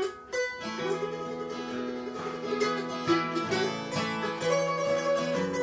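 Acoustic bluegrass string music: the instrumental opening of a song, picked on guitar and other plucked strings, with no singing yet.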